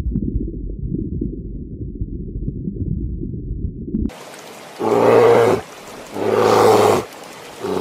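A low, rumbling animal growl, then two loud drawn-out animal calls about a second and a half apart, with a third beginning at the end.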